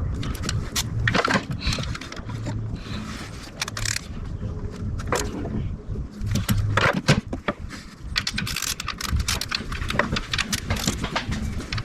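Irregular metallic clinks and scrapes of hand tools, such as sockets and a wrench, being worked on engine parts.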